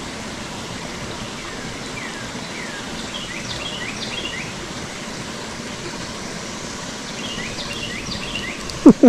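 Steady rush of creek water with a songbird singing two bursts of quick chirping phrases. Just before the end, two brief loud whooshes fall sharply in pitch.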